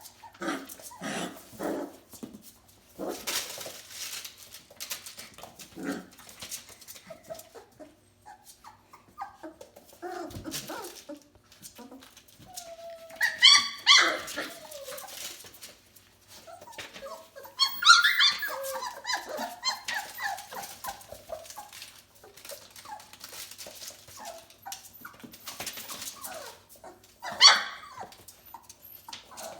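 Four-week-old Bernedoodle puppies playing: high-pitched yips, squeals and small barks come now and then, loudest about 13 to 14 seconds in, around 18 seconds and near the end, with scuffling and shuffling between them.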